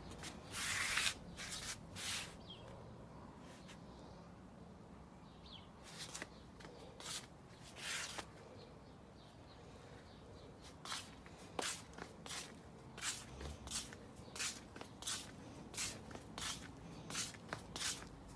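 Footsteps crunching on dry ground, scattered at first and then settling into a steady walking pace of about two steps a second partway through.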